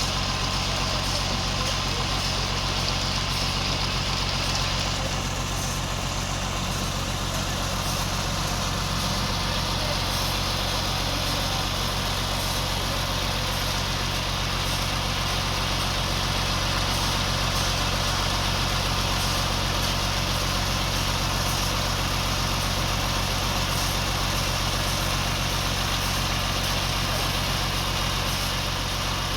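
A sawmill's engine running steadily at a constant speed, with a continuous noise over it.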